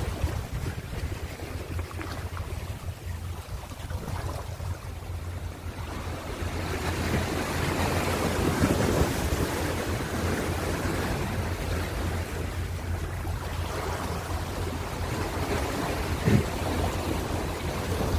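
Ocean waves on a shore: a quieter lull for the first few seconds, then a wave swells and washes in about halfway through, with a short sharp knock or splash near the end. A steady low rumble runs underneath.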